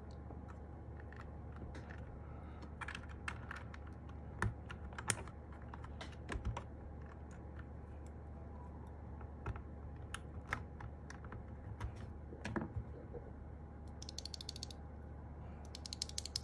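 Mechanical keyboard being handled and pressed: scattered sharp plastic clicks and clacks of keys and keycaps. A quick rattling run of clicks comes near the end.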